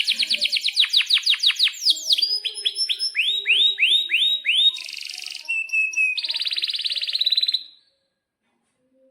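Domestic canary singing a fast song of rolls and trills: a quick run of downward-sweeping notes, then slower swept whistles, a buzzy phrase, a short held whistle and a rapid buzzing roll, stopping abruptly about 8 seconds in.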